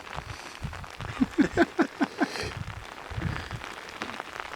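A person's voice making a quick run of about six short sounds in a little over a second.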